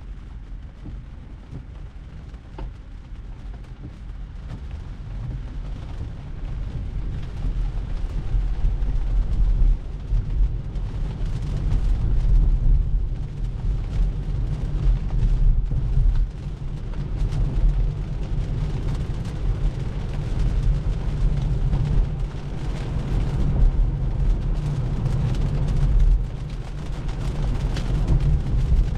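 Road and tyre noise heard inside the cabin of a 2024 Tesla Model 3 driving on a wet road: a steady low rumble with a faint hiss above it, growing louder over the first ten seconds and then holding. The car is electric, so there is no engine note under it.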